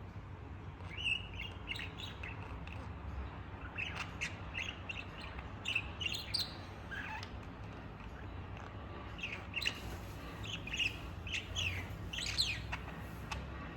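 Pet budgerigar chirping and warbling in quick clusters of short high chirps, with a quieter pause in the middle. A low steady hum runs underneath.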